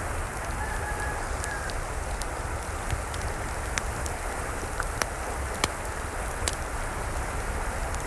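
Steady rain falling, with scattered drops ticking sharply on a hard surface.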